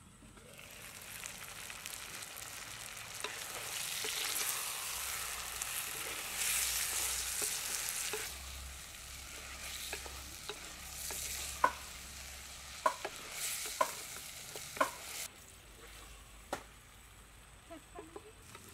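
Chicken pieces sizzling in a clay pot while being stirred with a perforated wooden spoon. Several sharp knocks of the spoon against the pot come in the second half, and the sizzling dies down about three-quarters of the way through.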